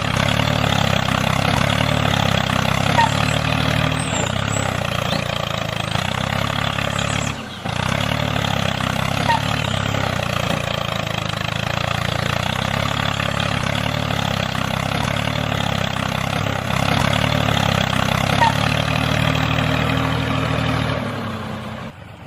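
A motor running steadily, with a brief drop about seven and a half seconds in; it fades out near the end.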